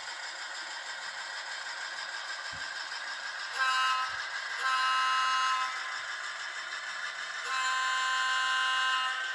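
HO scale model locomotive's sound-decoder air horn sounding three blasts with several chime notes together: a short one, then a longer one, then a longest one near the end, over the locomotive's steady running sound.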